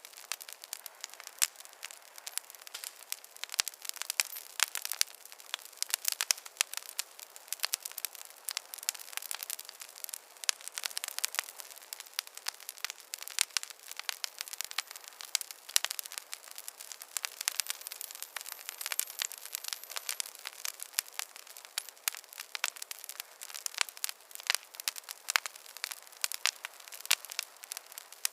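Wood fire crackling: a dense, irregular run of small snaps and pops over a soft hiss, with no deep rumble.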